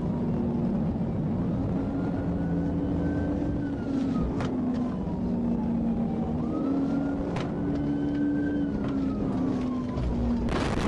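Police car siren wailing, its pitch sliding slowly up and down, over the steady drone of a car engine at speed. Two sharp clicks and a brief burst of noise near the end.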